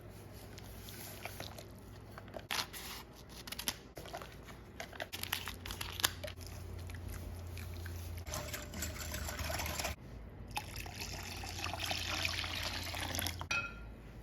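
Liquid being poured into a container in two pours, after a run of small clinks and handling knocks; a short rising tone near the end of the second pour.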